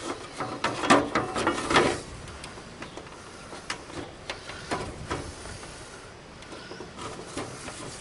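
Clicks, rattles and light scraping from hand work on a mower hood's grill and its screws, busiest in the first two seconds and then a few scattered single clicks.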